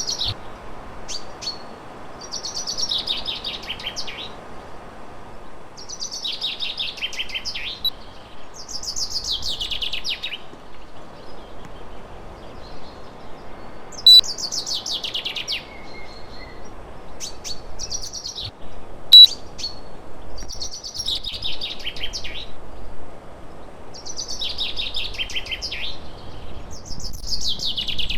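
A songbird sings the same short falling trill again and again, about every three seconds, each a quick run of notes dropping from high to lower pitch. Under it runs a steady low hum. Two sharp clicks, loud and sudden, come near the middle, about five seconds apart.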